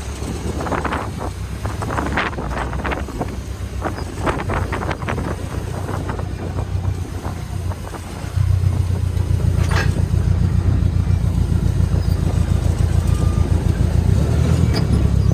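A forklift's engine running steadily, louder from about eight seconds in, with scattered clanks and knocks in the first half.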